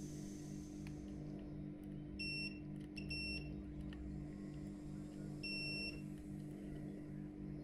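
Short high electronic beeps, one about two seconds in, a pair about three seconds in and a longer one about five and a half seconds in, over a steady low hum that pulses about twice a second.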